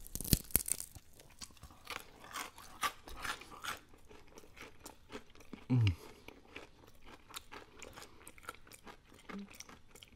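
Close-up eating of crispy fried chicken: a crunchy bite into the breaded coating just after the start, then chewing with many small crackles of the crisp crust. About six seconds in there is a short low hum of the voice that falls in pitch.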